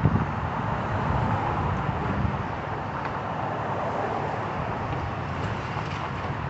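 Steady outdoor rumble and noise with no distinct events.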